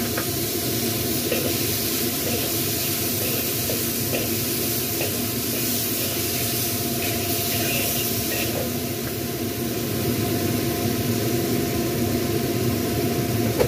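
Peeled quail eggs and chili-shallot paste sizzling in oil in an iron wok: a steady frying hiss, with a metal spatula stirring and scraping the wok now and then.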